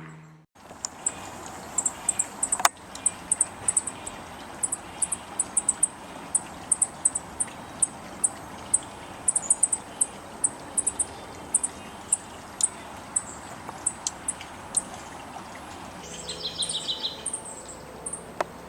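Juncos giving many short, very high-pitched chip notes in irregular runs over a steady outdoor hiss. A single sharp click comes a few seconds in, and near the end there is a different, lower call of several notes.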